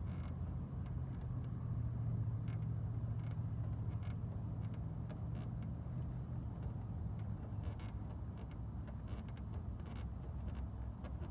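Steady low hum like an idling vehicle, with a few faint light clicks scattered through.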